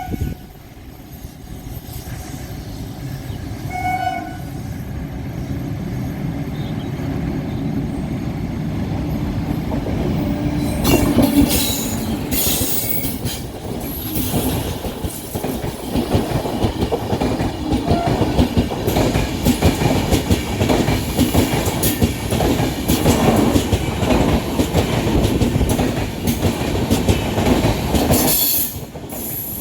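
An Indian Railways train sounds two short horn blasts, one at the start and one about 4 seconds in. It then approaches and passes close by, its wheels clattering steadily over the rail joints.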